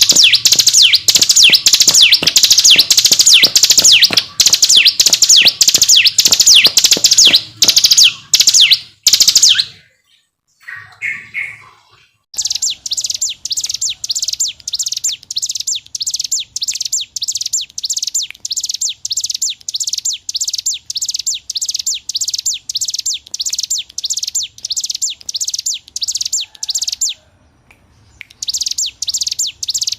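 Ciblek gunung (mountain prinia) singing a long, rapid run of high, repeated notes, each sweeping downward, about three a second: the continuous 'ngebren' song. The song breaks off for about two seconds some ten seconds in, resumes more softly, and pauses briefly again near the end.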